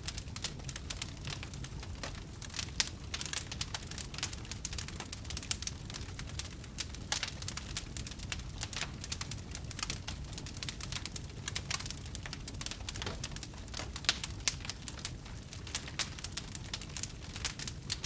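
Wood campfire crackling, with many small irregular pops and snaps over a steady low rumble.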